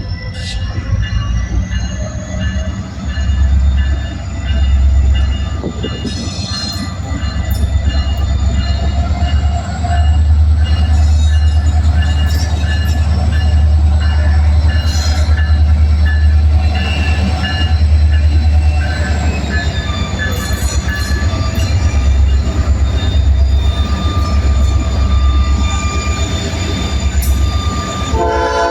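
EMD SD40-series diesel freight locomotives, with 16-cylinder two-stroke EMD 645 engines, running under load with a heavy, continuous low rumble as a long train rolls by. Steel wheels on rail add clicks and squeals.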